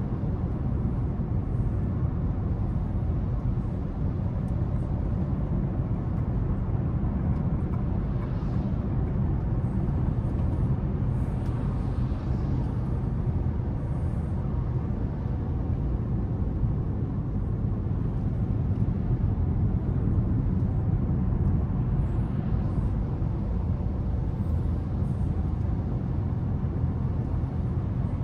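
Car driving in city traffic: a steady low rumble of engine and tyre road noise, even in level throughout.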